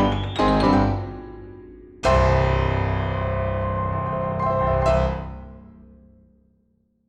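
Piano music: a quick rising run of notes, then a full chord struck about two seconds in that rings out, with a last accent near five seconds before the sound fades away to silence.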